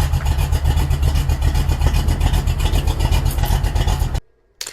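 Car engine running loudly with an even, rapid pulse in the exhaust, cutting off abruptly about four seconds in. A short sharp click follows near the end.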